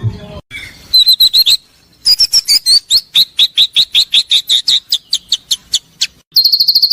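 Songbird calls in quick runs of sharp, harsh, repeated notes, about five a second. Near the end they give way to a fast, even trill.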